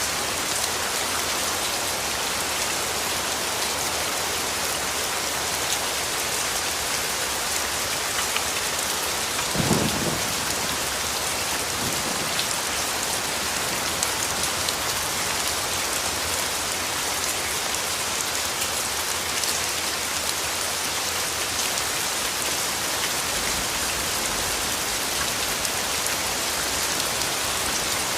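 Steady rainfall, an even hiss of many drops. About ten seconds in there is a short rumble of thunder, with a fainter one a couple of seconds after.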